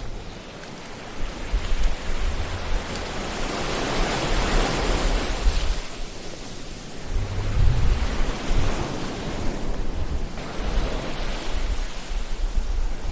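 Ocean waves surging and washing back, each swell rising to a hiss and falling away. The biggest swell comes about four to five seconds in and another builds near eight seconds, over a low rumble of surf.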